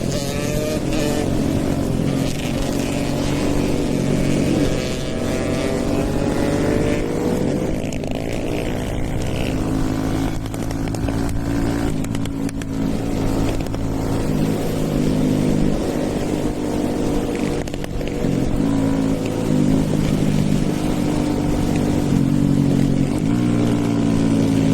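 Hero Eco 150 motorcycle with a stage 2 tune, riding along with its raw exhaust note loud throughout. The engine pitch rises and falls with throttle and drops in a few quick steps, as at gear changes.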